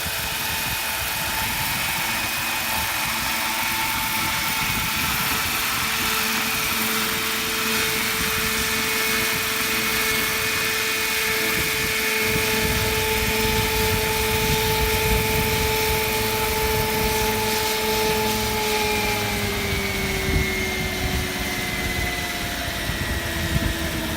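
Radio-controlled scale Agusta AW139 model helicopter running, a steady high whine from its motor and rotors. The pitch falls slightly in the last few seconds.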